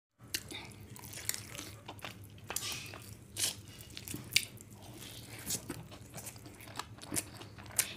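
A person biting and chewing pieces of spicy chicken close to the microphone, eating-ASMR style, with irregular sharp clicks.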